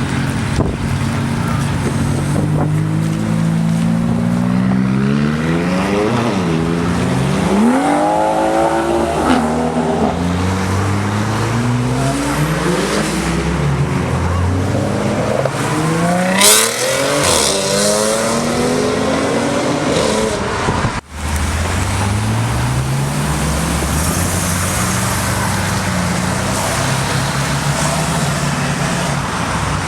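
High-performance sports car engines accelerating hard, their pitch repeatedly climbing and dropping back through gear changes. There is a sharp crack about halfway through.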